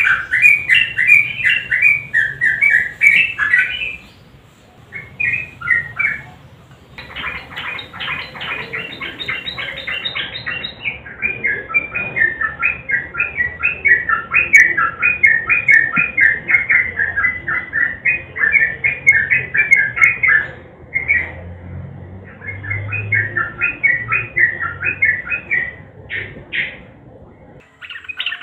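Yellow-vented bulbul singing long runs of fast, bubbling chattering notes, broken by a few short pauses.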